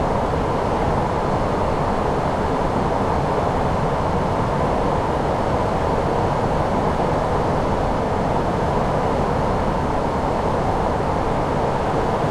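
Steady rushing of airflow and engine noise on the flight deck of an Airbus A340-600 in flight on approach.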